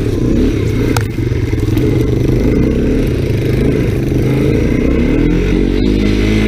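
1985 Honda 250SX three-wheeler's four-stroke engine running under throttle, its pitch wavering and then climbing near the end as it revs up.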